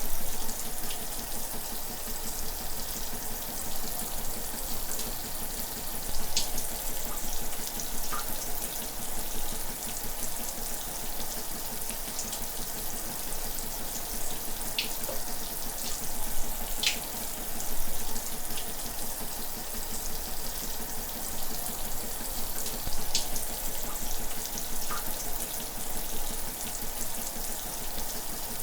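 Shower running steadily, a continuous hiss of falling water with now and then a sharper drop striking a surface.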